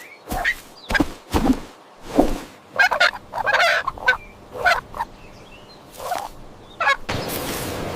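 A farm bird, a kind of domestic fowl, calling in a run of about a dozen short calls roughly half a second apart. Near the end the calls stop suddenly and a steadier, rougher noise takes over.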